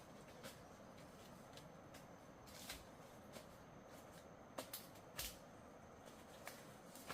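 Near silence with faint, scattered small clicks and rustles over a low steady hiss.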